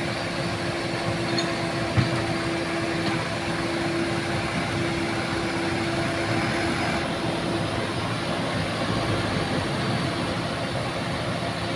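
Heavy vehicle's diesel engine running steadily with a constant hum, with one sharp knock about two seconds in.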